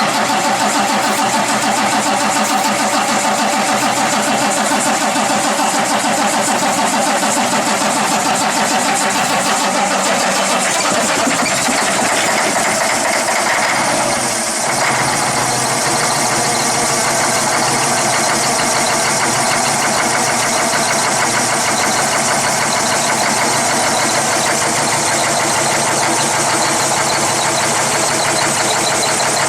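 Cummins ISX CM871 15-litre straight-six diesel engine firing up and then idling rough, with a brief change in its note about halfway through. The rough running comes just after an injector replacement, while the fuel system is still not fully primed.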